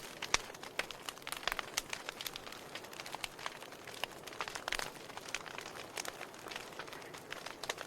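Wood fire crackling in a fireplace: frequent, irregular sharp pops and snaps over a soft steady hiss.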